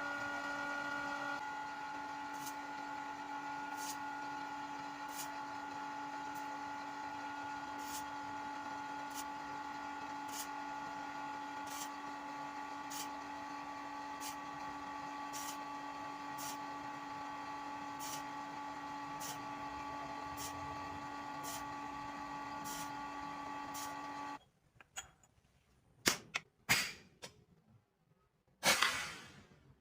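A small motor running with a steady hum of several held tones and a light tick about every second and a half, then cutting off suddenly; a few sharp metal clinks follow near the end.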